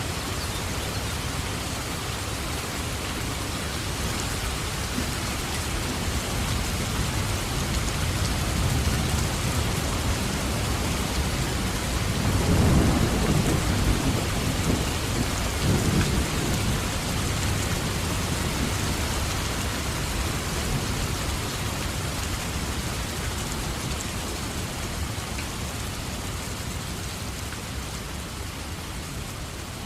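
Steady heavy rain with a roll of thunder that builds and rumbles low through the middle, peaking about halfway, then eases off.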